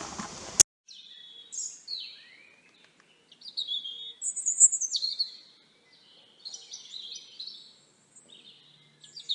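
Birdsong: a small songbird's quick chirping and warbling phrases, clean and high, with short pauses between phrases. It starts with a sharp click about half a second in, where the outdoor background cuts off.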